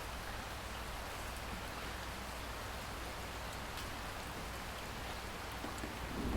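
Steady rain falling, an even hiss with scattered drop ticks. A low rumble of thunder starts to build near the end.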